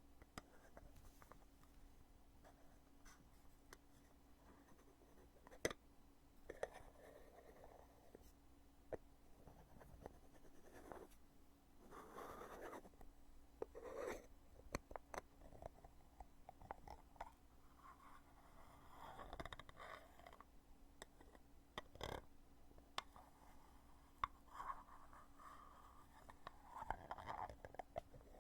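Lid of a cosmetic foundation container being opened and closed by hand, close-miked: a few sharp clicks as the lid snaps, and several soft scraping rubs of the lid against the container, all faint over a steady low hum.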